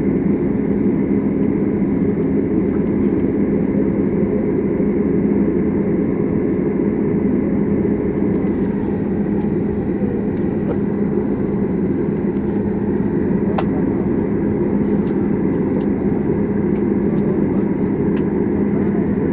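Steady drone of a jet airliner's engines at low power before the takeoff roll, as heard inside the passenger cabin, with a steady low hum and no changes in level.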